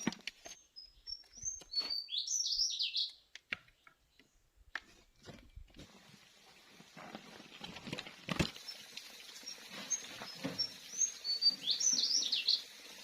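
A songbird sings twice, each phrase a few short high whistled notes leading into a fast jumbled flourish. Scattered knocks and clicks come between the phrases, the sharpest about eight seconds in.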